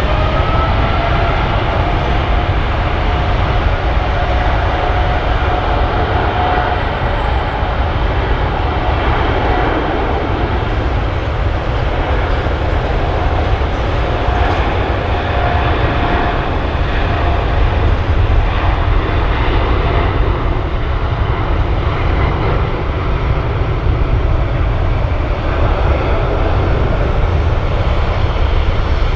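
Jet airliner engines running near the runway: a loud, steady rumble with faint whining tones on top.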